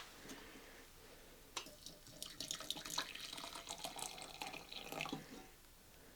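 Faint trickling and dripping of liquid while coffee is brewed, starting about a second and a half in and stopping a second before the end.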